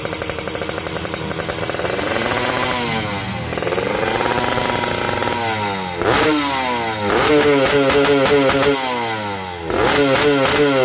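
Kawasaki Ninja SS single-cylinder two-stroke engine breathing through an Arrow carbon silencer, revved again and again: the pitch climbs and falls several times, with a couple of sharp, loud throttle blips and briefly held high revs in the second half.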